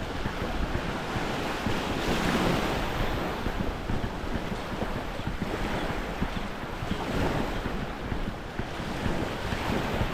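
Surf washing onto a beach, swelling every few seconds, with wind buffeting the microphone.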